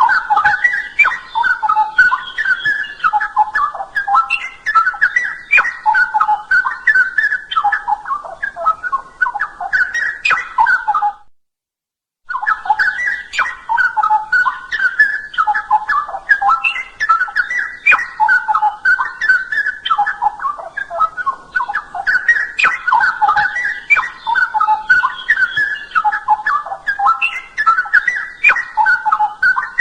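Straw-headed bulbul (cucak rowo) singing a loud, rich run of fast bubbling whistled phrases. The song cuts out to dead silence for about a second, about eleven seconds in, then carries on.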